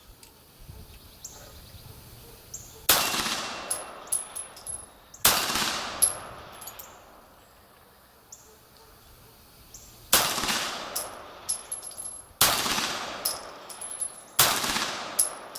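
Five 9 mm pistol shots from a Beretta 92G Elite Compact, spaced a few seconds apart at an uneven pace, each cracking sharply and echoing away.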